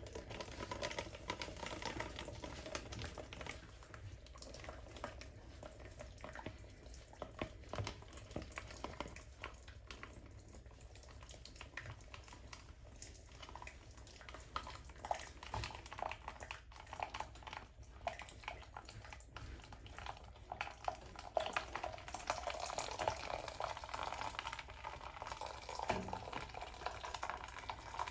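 Water running and splattering from a water heater's drain as mud and scale are flushed out, with many small clicks and taps. It grows louder about three-quarters of the way through.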